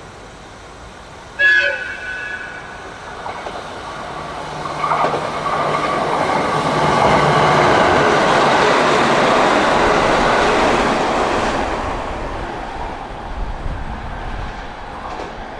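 An electric train sounds a short horn blast about a second and a half in, then runs through the station without stopping. Its rumble and wheel clatter build, are loudest for several seconds as it passes, and fade away near the end.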